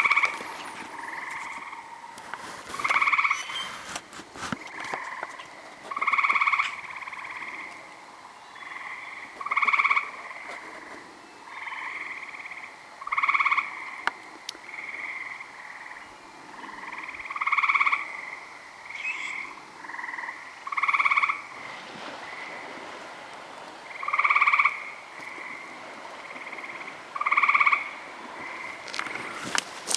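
Frogs calling: short croaking notes repeat every second or so, with louder ones about every three to four seconds.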